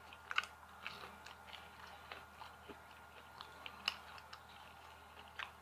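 Close-up chewing of a jalapeno popper: a string of short, soft clicks and crackles from the mouth, the sharpest about half a second in and about four seconds in.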